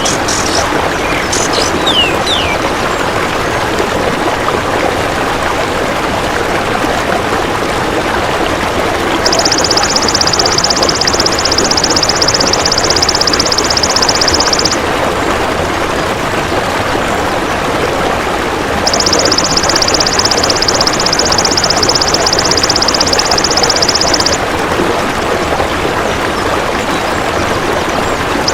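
Golden grasshopper (belalang emas) calling in two high, rapidly pulsed buzzing bursts of about five seconds each, one about nine seconds in and one about nineteen seconds in, over a steady rushing hiss like running water. A bird gives a few short falling whistles in the first couple of seconds.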